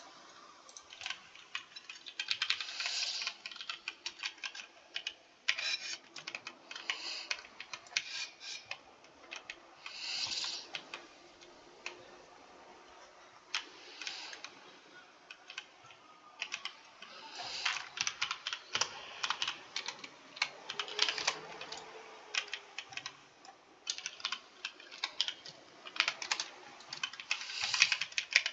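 Computer keyboard being typed on: rapid runs of keystroke clicks in bursts, broken by short pauses.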